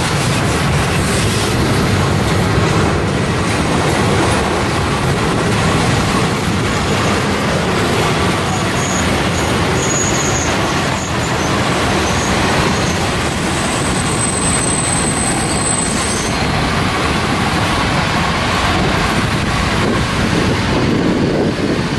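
Passenger coaches of a historic steam-hauled train rolling past on the rails, a steady rumble and clatter of wheels on track, with a few brief high-pitched wheel squeals partway through.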